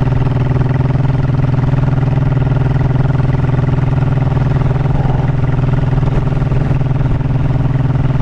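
Honda motorcycle engine running steadily, its pitch and level holding even with no revving.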